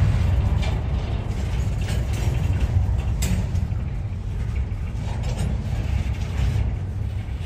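Double-stack intermodal freight train rolling past: a steady low rumble of steel wheels on rail, with a few sharp clacks from the passing well cars.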